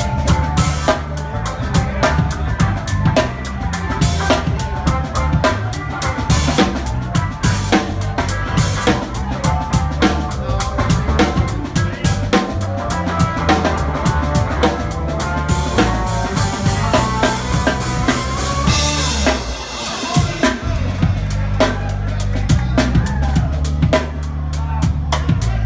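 Live rock band playing an instrumental stretch with no vocals: a drum kit drives a steady beat on bass drum and snare under a bass line. About nineteen seconds in, the drums thin out under a cymbal wash, then the full beat comes back.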